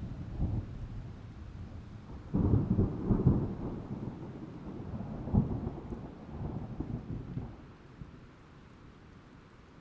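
A thunderclap about two and a half seconds in, rolling and rumbling low before fading away by about eight seconds, with rain falling throughout.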